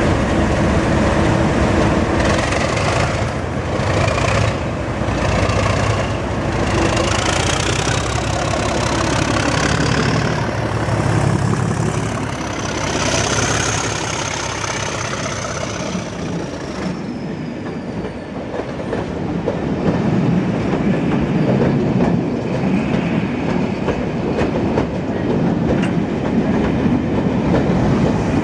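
Two British Rail Class 37 diesel-electric locomotives, with English Electric V12 engines, at full power accelerating away with a heavy train. A whistle climbs in pitch over about ten seconds and then falls away, and a heavy low rumble follows as the train passes.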